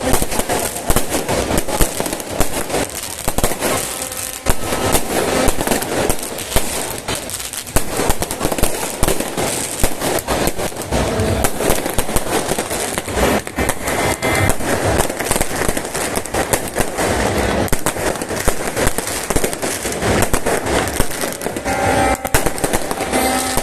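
Fireworks going off in a dense, continuous barrage of cracks and bangs.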